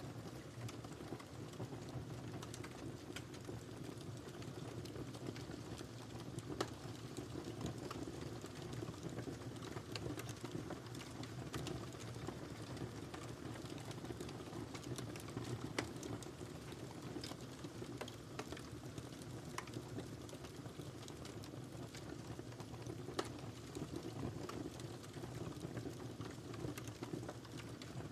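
Wood fire burning in a fireplace: a steady low rush of flames with irregular crackles and pops, a few louder snaps scattered through.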